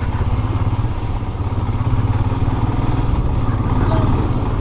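Motorcycle engine running steadily while riding, a low, even, rapid beat.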